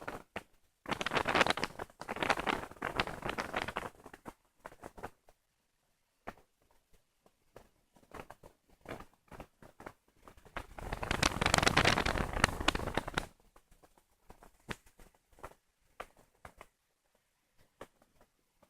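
Strong wind buffeting the microphone: two loud gusts of wind noise, the first about a second in and the second after about ten seconds, with scattered crackles and pops between them.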